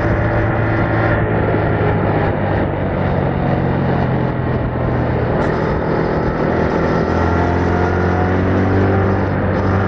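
Yamaha MT-07's 689 cc crossplane parallel-twin engine running on its stock exhaust while riding at a fairly steady speed, its pitch creeping up over the last few seconds.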